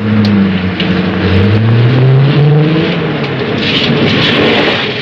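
A car driving along with its engine running, the engine note rising and falling.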